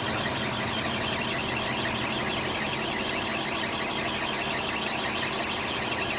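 Mitsubishi Pajero engine running steadily at an even speed.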